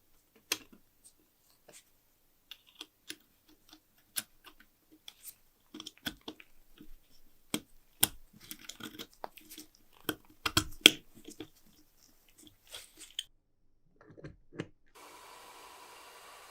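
Irregular sharp metallic clicks and clacks from a restored trench-style lighter being handled, thickest and loudest over the middle of the stretch. A steady faint hiss takes over near the end.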